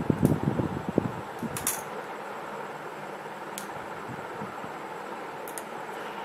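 A knife prying at a Nokia C1-01's plastic housing: rubbing and scraping for about the first second, then a few sharp plastic clicks as the side clips are worked loose, the loudest about a second and a half in. A steady fan hiss runs underneath.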